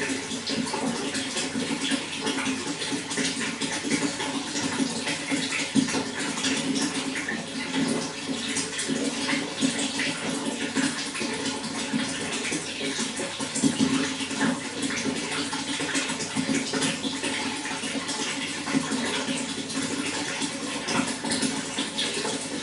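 Water running steadily, with a constant rush and many small splashes.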